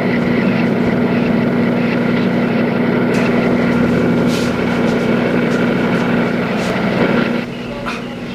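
Small petrol generator running with a loud, steady engine drone. It drops sharply in level near the end.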